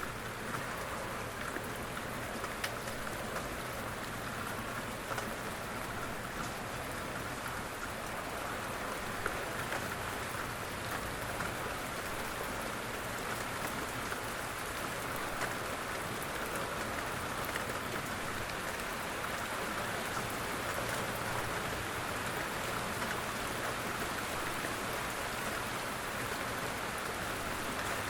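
Steady rain falling, a soft even hiss with scattered fine drop ticks.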